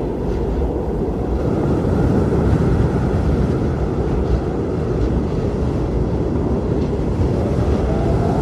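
Strong blizzard wind blowing in a steady, heavy rush, deepest in the low range, with no separate events.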